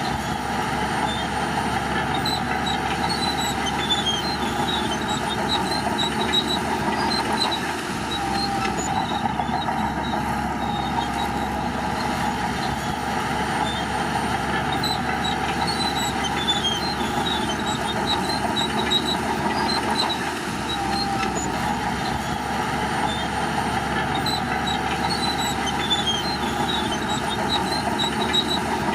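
Shantui bulldozer working: its diesel engine runs steadily under load, with a whine that wavers slightly in pitch and scattered short high metallic squeaks.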